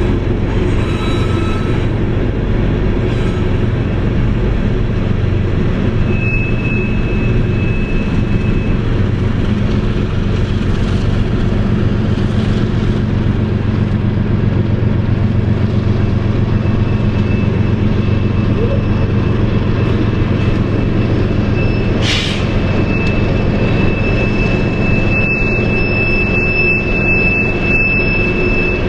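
Diesel locomotives hauling an empty coal train upgrade, a steady low rumble of engines working under load. A thin high tone comes in twice, and there is one sharp crack about 22 seconds in.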